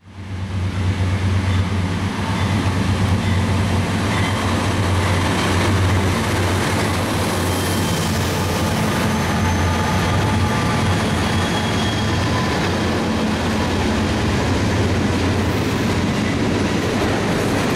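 Norfolk Southern diesel freight train passing close by. The locomotives go past with a steady low rumble, followed by freight cars rolling by with wheel and rail noise.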